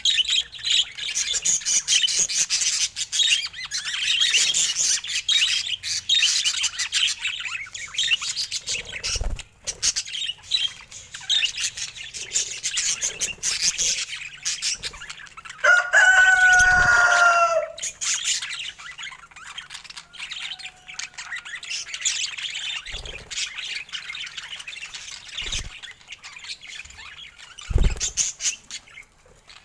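Pet budgerigars chirping and chattering continuously, with one louder, downward-sliding call about halfway through and a few short low thumps scattered through.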